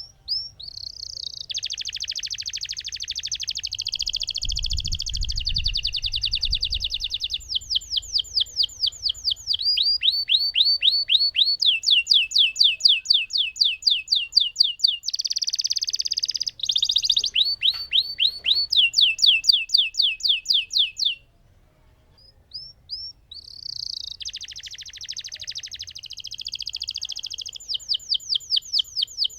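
Lemon canary singing its long rolling song: dense trills alternating with rapid runs of sweeping notes, about five a second. It breaks off for about two seconds past the middle, then starts up again.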